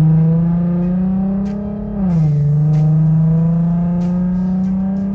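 Infiniti Q50's V6 engine heard from inside the cabin while accelerating. The note climbs steadily, drops at a gear change about two seconds in, then climbs again.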